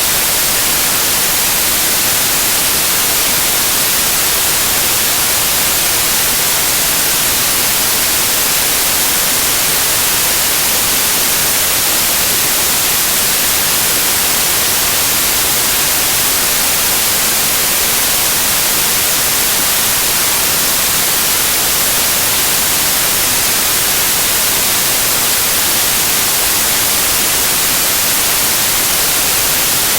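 Loud, steady white noise: an even hiss that stays unchanged throughout, strongest in the high frequencies.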